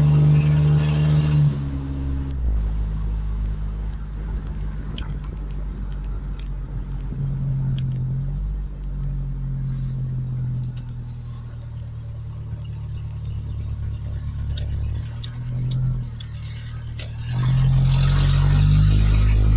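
1991 Ford Ranger engine running, its speed and loudness stepping up and down several times and picking up again near the end, with a few light clicks in between.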